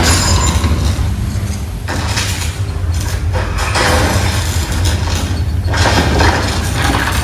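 Theme-park earthquake simulation effects: a loud, constant deep rumble with noisy crashes breaking in every couple of seconds.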